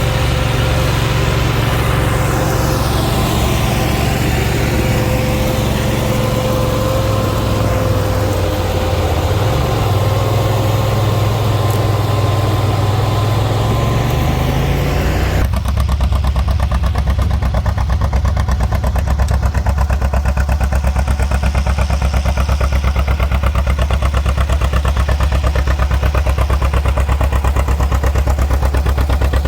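Farm tractor engines running under way. About halfway through, the sound changes abruptly to one engine close by, chugging with a steady rapid beat.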